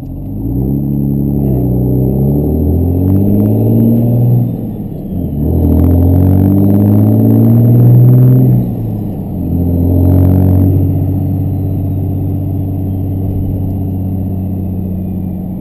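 Compound-turbocharged 5.9 Cummins diesel accelerating hard. The engine note climbs, drops briefly at an upshift about four to five seconds in, climbs again, and drops at a second shift near nine seconds. It then settles into a steady, slowly easing drone. A rushing sound rises with it at the top of the second pull.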